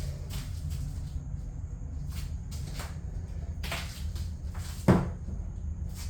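A few light clicks and knocks, then one sharp thump just before five seconds in, like a door or lid banging shut, over a steady low rumble.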